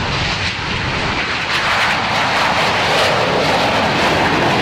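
Aircraft engine roar from a plane flying at an air show, a dense steady rush that grows louder over the first three seconds.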